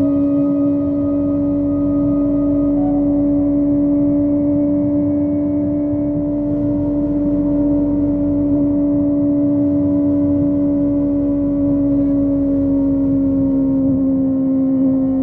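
Kawasaki ZX25R's inline-four engine through a Yoshimura exhaust, holding a steady high-revving drone while cruising, its pitch easing slightly down near the end as the bike rolls off.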